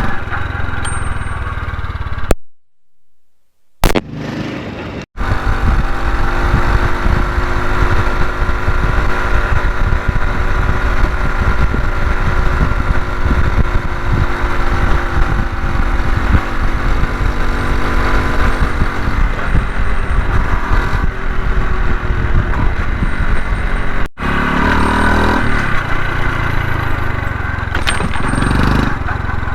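Honda CT125 Hunter Cub's single-cylinder engine running on the move, under heavy low wind rumble on the microphone. The sound drops out briefly a couple of seconds in, and there are abrupt cuts at about five seconds and again near the end.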